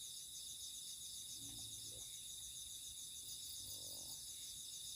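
Night insect chorus of crickets: several steady high trills layered together, one of them pulsing rapidly.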